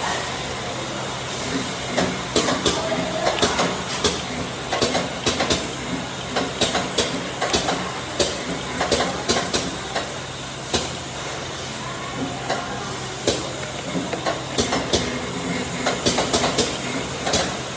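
Tyre factory machinery running with a steady low hum and hiss, over many irregular sharp clacks and knocks.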